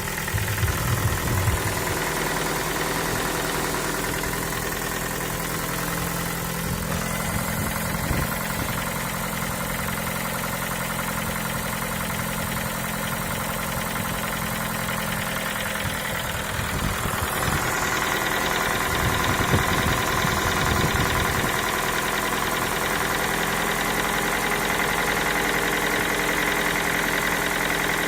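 Ford Focus 3 1.6-litre 105 hp petrol engine running steadily at idle, with a knock from inside the engine. The knock comes hot or cold. Workshops have put it down to valve clearance, the variable valve timing phasers or a piston pin. The engine note shifts and gets a little louder about 17 seconds in.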